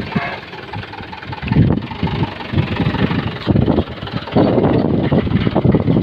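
Truck engine running, with wind buffeting the microphone in irregular gusts.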